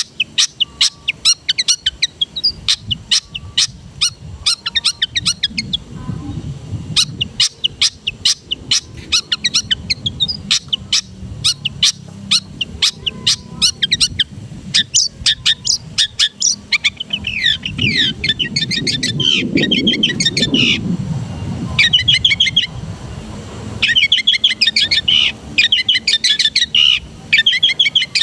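Long-tailed shrike (cendet) singing. It opens with a fast run of sharp, high chip notes, several a second, then moves into denser warbled phrases. A low rumble rises and fades twice in the background.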